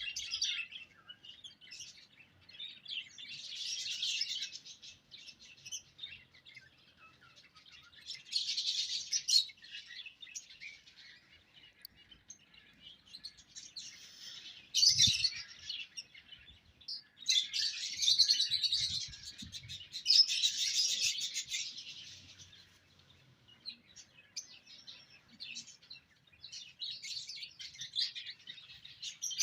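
A group of small pet birds chirping and chattering in bouts of a second or two, with quieter pauses between them. A soft low knock is heard about halfway through.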